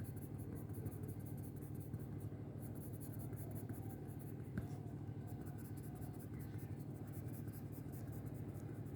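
A colouring tool scratching across paper in quick, repeated short strokes, shading in a drawing. There is a small tick about four and a half seconds in, over a faint steady low hum.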